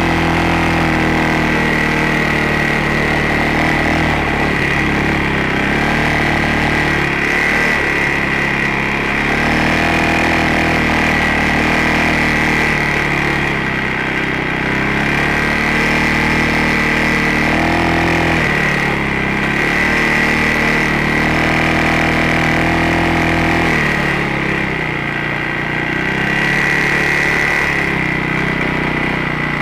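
ATV engine running under changing throttle, its pitch rising and falling again and again as the machine climbs and crawls over trail terrain, with a steady high whine over the engine note.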